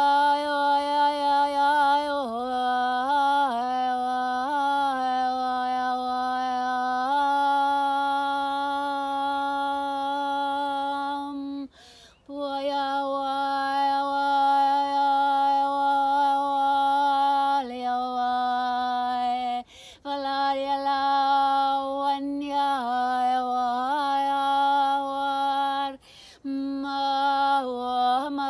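A woman's voice singing long, held wordless tones, one note sliding into the next, with a few short breaks for breath.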